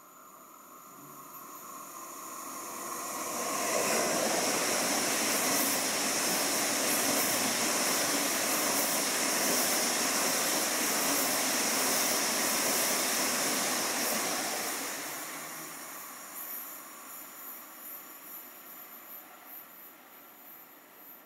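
A train passing by: a steady rush of wheel and air noise that builds over about four seconds, holds for about ten, then fades away.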